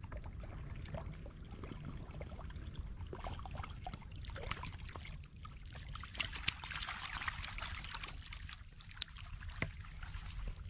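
Shallow water trickling and splashing, with many small splashes that grow denser in the middle, over a steady low rumble.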